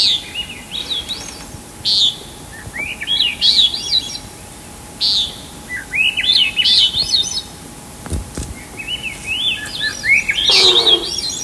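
A songbird singing repeated phrases, each a sharp high note followed by a quick run of rising chirps, about every three to four seconds. A single soft knock comes about eight seconds in.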